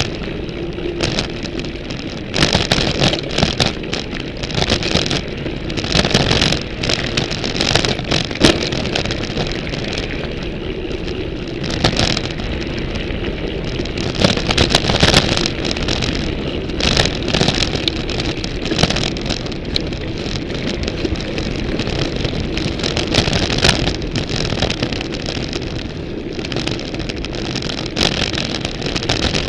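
Ibis Mojo HD 140 full-suspension mountain bike being ridden over rough ground, picked up by a camera clamped to its frame. A continuous rush of tyre and wind noise runs under frequent sharp clicks and rattles from the bike.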